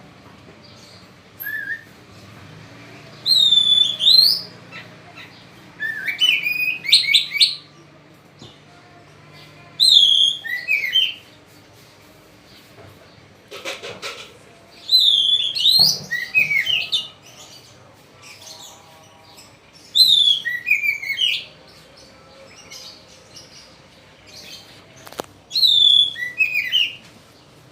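A bird singing about six loud, separate song phrases, each a second or two of quick high whistled notes that slide and drop in pitch, repeated every few seconds.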